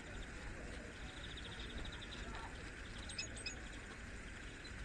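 Small birds calling outdoors: a quick trill about a second in, then a few short high chirps a little after three seconds, over steady low background noise.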